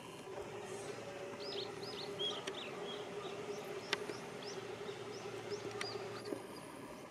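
A small songbird chirping repeatedly in short, quick-curving notes, over a steady rush of flowing canal water and a low steady hum. A few sharp clicks are heard.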